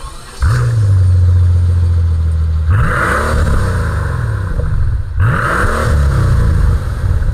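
A car engine revving hard twice, each rev sweeping up in pitch and falling back, over a deep steady drone, with a hiss at the start of each rev.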